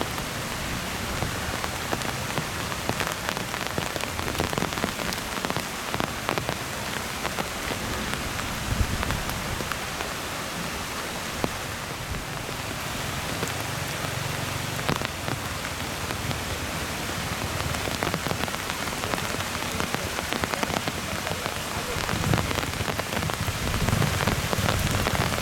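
Heavy rain falling: a steady hiss thick with the ticks of single drops. A low rumble comes and goes beneath it and grows near the end.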